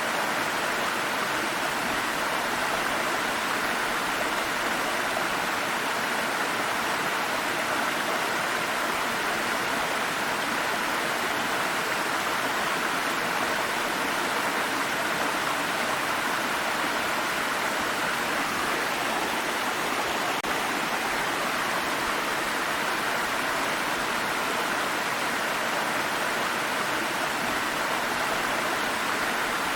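Water stream flowing and splashing over rocks, an even, steady rush.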